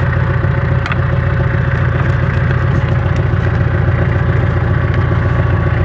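Tractor engine idling steadily, with a few faint clicks.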